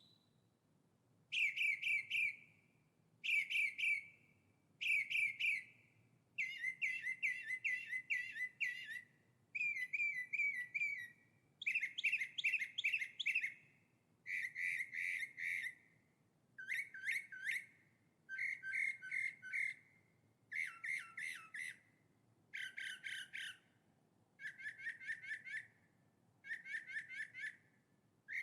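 A songbird singing short phrases of rapid repeated chirping notes, one phrase every second or two with brief pauses between.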